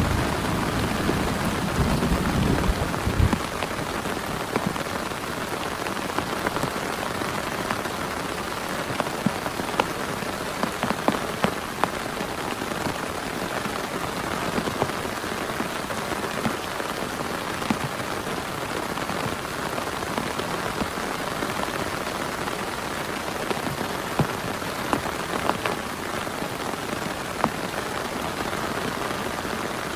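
Heavy rain falling steadily, with scattered louder drops ticking. A low rumble dies away about three seconds in.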